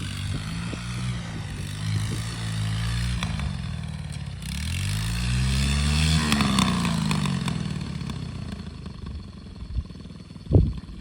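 Small Chinese 110cc single-cylinder ATV engine under throttle. Its revs climb about halfway through, peak and then fall off as the throttle eases. A single sharp knock comes near the end.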